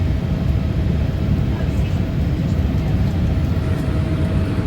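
Steady roar of engine and airflow noise inside the cabin of a Boeing 787-8 in flight, deep and even, with a faint steady hum running through it.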